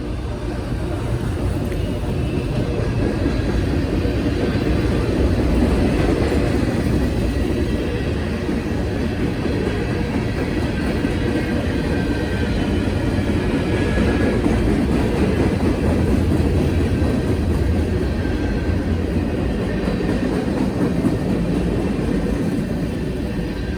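A freight train's cars rolling past close by: a steady, loud rumble of wheels on rail with most of its sound low.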